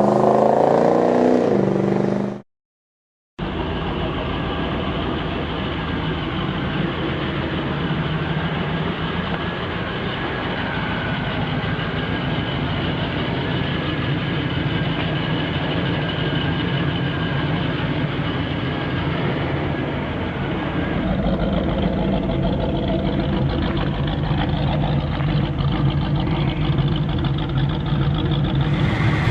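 Muscle car engine running steadily at an even, low pitch, after a brief cut to silence about two seconds in; the opening seconds hold a different sound with a gliding pitch.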